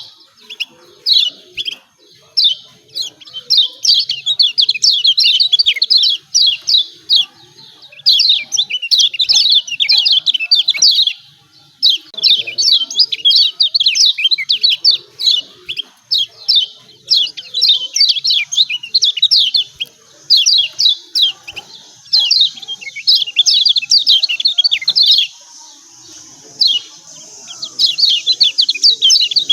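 Kecial kuning (Lombok yellow white-eye) giving its rapid 'ciak ciak' chattering calls: fast runs of short, high, downward-sliding chirps in bursts of a few seconds, broken by brief pauses.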